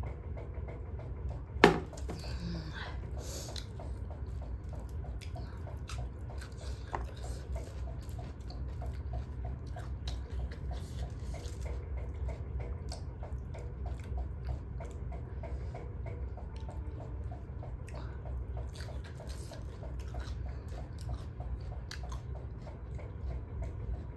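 Close-up chewing and mouth sounds of someone eating a curry meal, with small wet clicks and one sharp click about a second and a half in, over a steady low hum.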